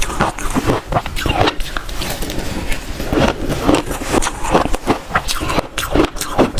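Close-miked crunching of shaved ice being bitten and chewed: a quick, irregular run of crisp crunches, several a second.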